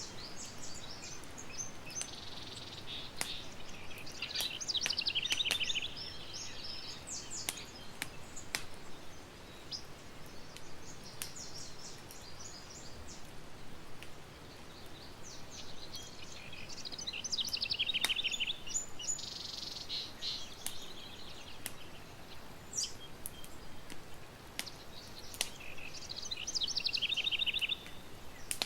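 Campfire crackling with scattered sharp pops, while wild birds sing short trilled phrases three or four times.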